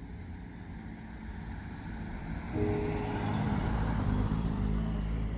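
A road vehicle passing close by, its noise building to a peak about three seconds in, with a heavy low rumble.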